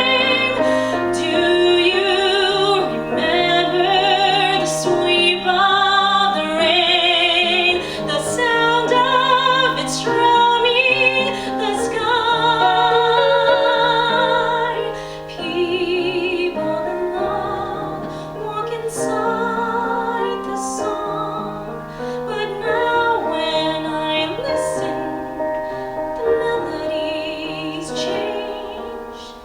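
A woman sings a Broadway musical-theatre ballad with piano accompaniment, her held notes carrying a wide vibrato; the singing drops softer about halfway through.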